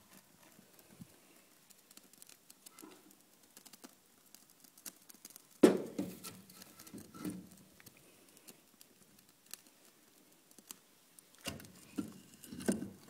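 Split firewood logs being laid onto burning kindling in a wood stove: a sharp knock about six seconds in and a cluster of knocks near the end, with faint crackling clicks between.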